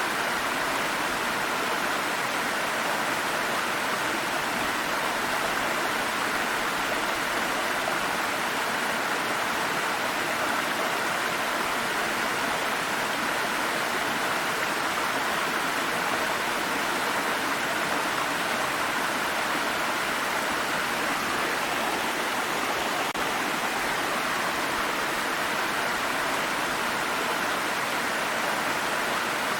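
Stream water rushing and babbling steadily over rocks, an even, unbroken sound.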